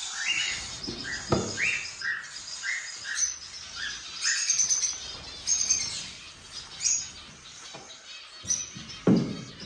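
Cockatiels chirping in a quick run of short, rising calls, with thinner high chirps over them. A knock comes about a second in and another near the end.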